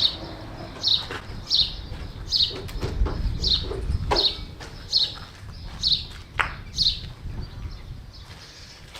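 A bird chirping over and over, short high notes that fall in pitch, roughly one a second, over a steady low rumble.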